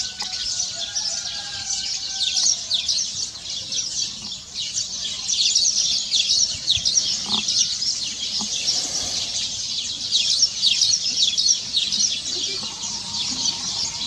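A dense chorus of many small songbirds chirping and twittering, a continuous high-pitched chatter with no pause.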